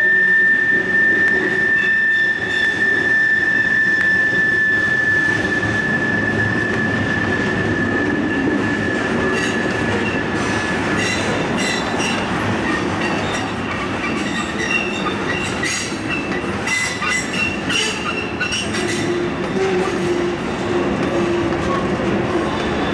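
Train cars rolling past with wheel squeal over a steady rumble. A single high squeal holds for about the first ten seconds and fades. It is followed by a run of shorter, higher squeals and clicks from the wheels.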